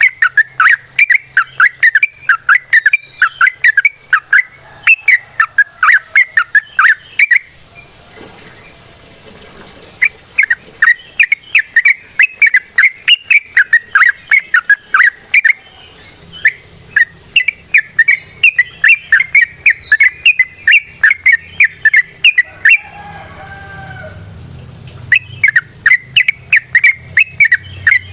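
Yellow-vented bulbul (trucukan) singing its long, rapid chattering run of sharp notes, many per second, broken twice by short pauses.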